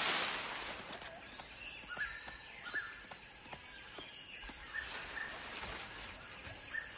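Forest ambience: short, high bird chirps repeated irregularly over a steady hiss, after a brief swish of noise at the start that fades within about a second.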